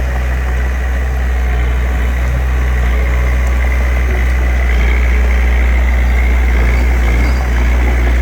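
Diesel engine of earthmoving machinery running steadily, a low, even drone with no change in pace.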